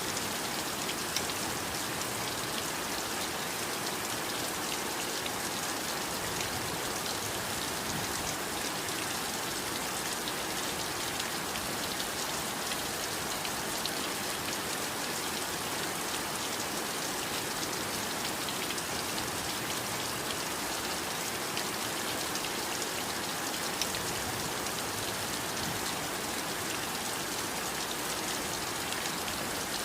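Steady heavy rain falling, an even hiss with scattered drops.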